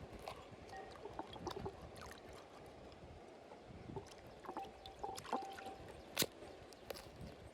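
River water flowing steadily, with scattered sharp clicks and knocks on top and a few short ringing tones a little past the middle; the sharpest knock comes about six seconds in.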